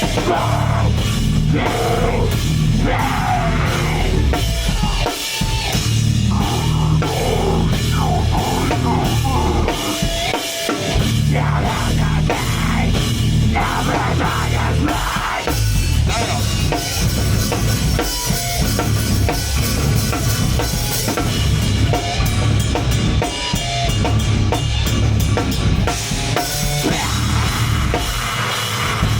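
A heavy band playing loud live music, with a pounding drum kit and bass drum under amplified instruments.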